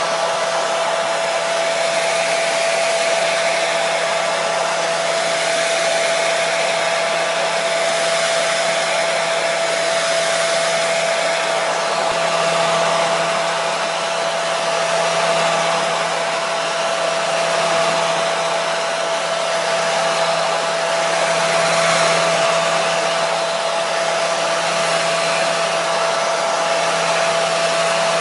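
Hair dryer running steadily: an even airflow rush with a constant motor whine.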